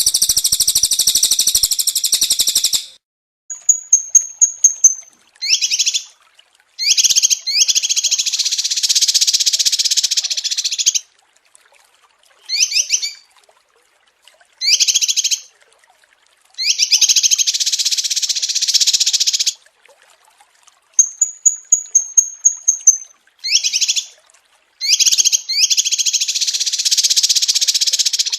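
Small songbird song from a masteran tutor recording. Long, dense, buzzy chattering trills alternate with quick runs of short down-slurred chirps and a couple of brief thin, very high trills, each phrase separated by clean silent gaps.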